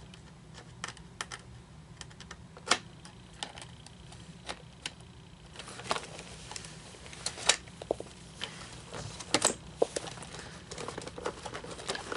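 Irregular light clicks and taps of a small tool against hard plastic parts as pins are pushed out of a Gemmy animatronic figure's hip mechanism, coming more often from about halfway.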